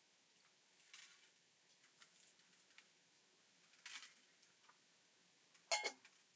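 Near silence broken by a few faint clicks and brief rustles, with one sharper click near the end.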